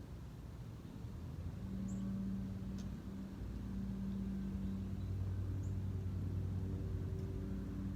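Low steady drone of a vehicle engine running, growing louder about a second and a half in, with a few faint, brief high chirps.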